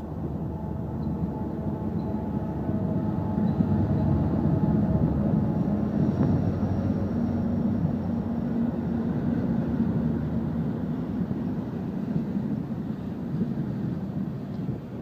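Diesel locomotives of a BNSF coal train, led by a GE ES44C4, passing under power with a steady engine rumble. The rumble gives way to the rolling of open coal hopper cars on the rails.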